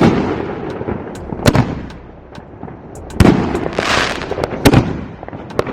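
Fireworks going off in a string of sharp bangs, roughly one every second and a half, with a hissing crackle about four seconds in.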